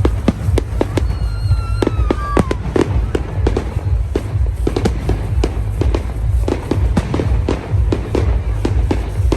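Fireworks display: dense crackling and popping, many sharp bangs a second, over a constant low booming rumble.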